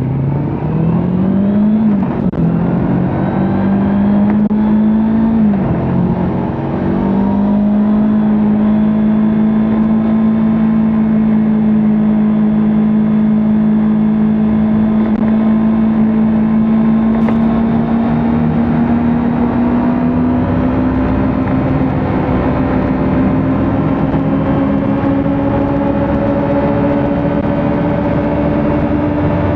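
Kawasaki Ninja 400's parallel-twin engine accelerating through the gears, its pitch climbing and dropping at upshifts about two and six seconds in. It then settles into a steady drone at cruising speed that creeps slowly higher, over a steady rush of noise.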